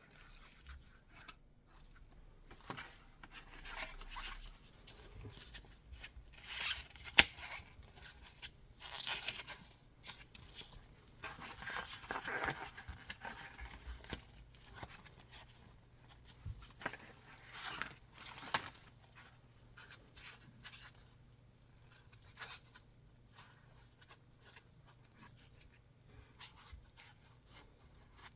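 Packaging of a pair of in-ear monitors being handled and opened: intermittent rustling, scraping and tearing of box and wrapping, with light taps and clicks and one sharp click about seven seconds in.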